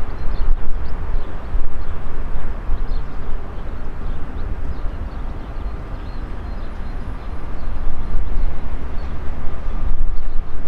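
Freight train's wagons rolling slowly away over the station tracks: a low rumble that swells and fades, loudest at first and again near the end.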